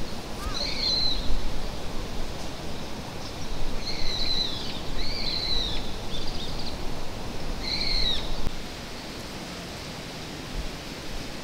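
A wild bird calling: about five short, high, arching calls spaced across several seconds. Under them runs a steady rushing noise that falls away after about nine seconds.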